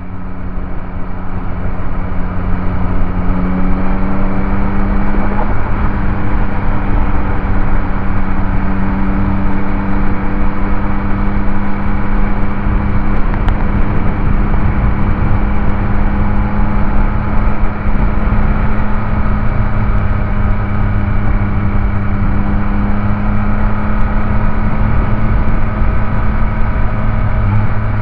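Yamaha MT-09 SP's 890 cc inline-three engine and exhaust running at a steady cruise while riding. The engine note rises slightly about four seconds in, then holds nearly level.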